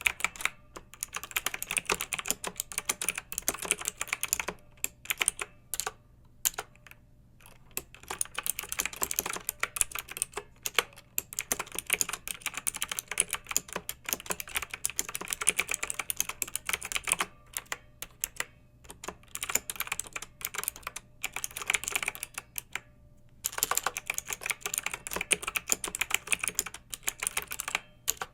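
Clicky mechanical keyboard being typed on in quick, uneven runs of keystrokes, with brief pauses between bursts.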